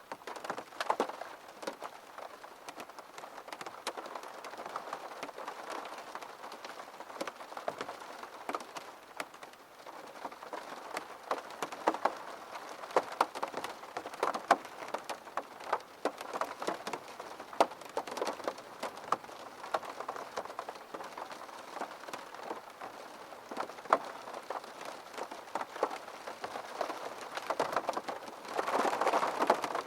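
Rain on a window: a steady patter with many separate drops tapping sharply against it. A heavier rush comes about a second before the end.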